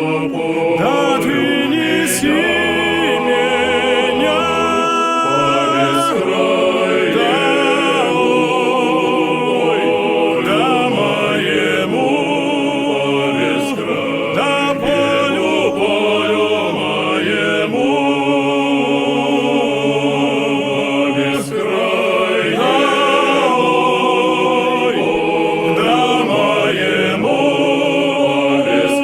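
Choir singing in harmony, with several held, wavering voice lines that continue without a break.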